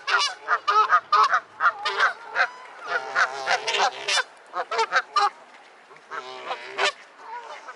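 A crowd of water birds calling at once: many short, overlapping honking and squawking calls, thinning out and getting quieter about five seconds in.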